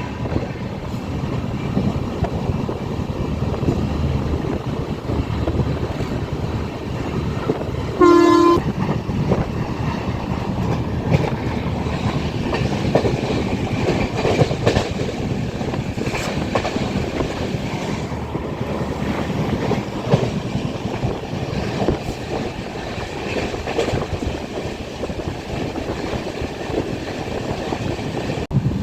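Passenger train running along the track, heard from a coach window: a steady rumble with wheel clatter on the rails. About eight seconds in, a short horn toot sounds.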